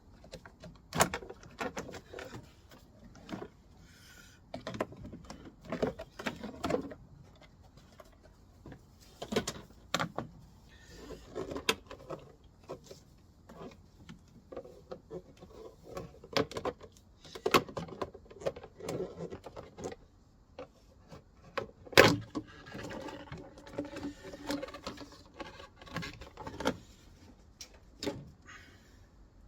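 Hand tools and engine-bay parts being handled while a car's engine bay is being opened up: scattered clicks, clatters and knocks, with one sharp knock about 22 seconds in and two short stretches of a steady hum.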